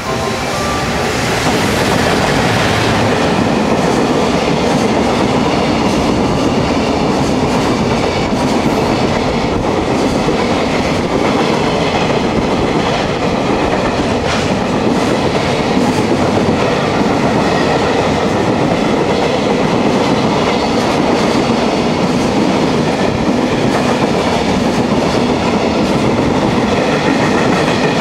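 Freight train of container wagons hauled by a JR Freight EF210 electric locomotive, passing at speed: a steady rumble and clatter of wheels over the rails. It grows louder over the first couple of seconds as the locomotive draws level, then holds steady as the wagons run by.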